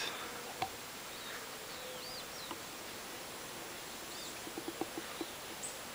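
A few short, faint bird chirps, each a quick rising-and-falling note, over a steady outdoor hiss, with a few soft ticks near the end.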